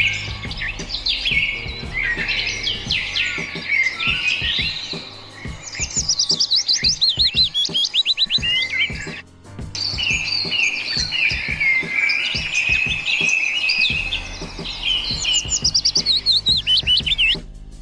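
Several songbirds singing at once: a dense chorus of chirps, whistled notes and fast trills, with a brief break about nine seconds in.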